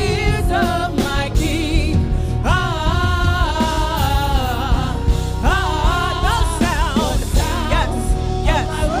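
Gospel worship music: a singer holds long, wavering notes over a band with a heavy low end and steady percussion.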